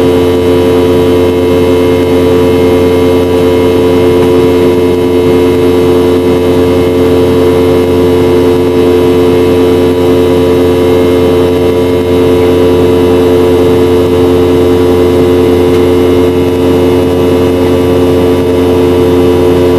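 Steady drone of a Boeing 717-200's rear-mounted Rolls-Royce BR715 turbofan engines heard inside the cabin: a constant hum of several held tones over a rushing noise, with no change in pitch or level.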